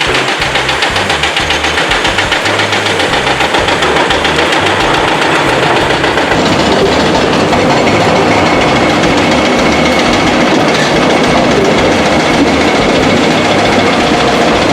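Heavy construction machine's diesel engine running, pulsing rhythmically at first, then growing louder and busier about halfway through.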